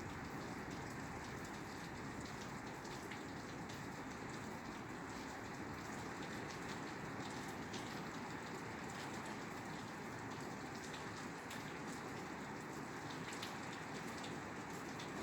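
Steady rain falling on a roof, a dense even patter with scattered individual drop ticks.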